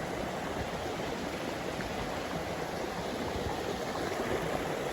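River water flowing steadily, a continuous rushing noise.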